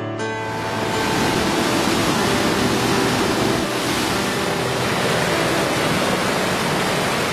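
Loud, steady rush of flowing water, setting in just after the start and holding an even roar.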